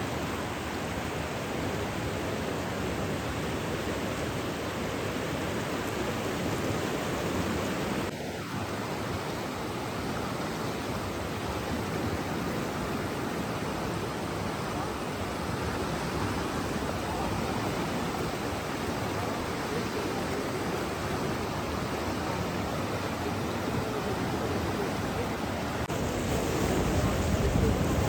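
Water rushing steadily with an even hiss, as from a stream or small waterfall; it grows a little louder near the end.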